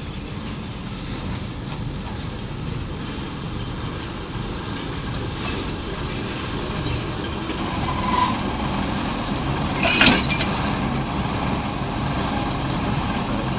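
Engine of a railway track-maintenance car running steadily with a low rumble that slowly grows louder, and one sharp metallic clank about ten seconds in.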